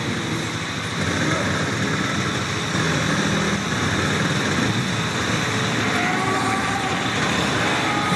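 Truck engine running steadily, with a rough rumble that does not change much.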